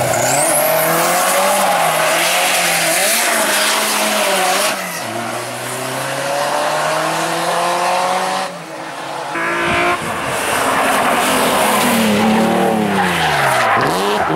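Rally car engine revving hard as it runs through the gears, pitch climbing and dropping again and again, with tyres squealing. The engine note falls steeply and then climbs again near the end, as it brakes, shifts down and accelerates away.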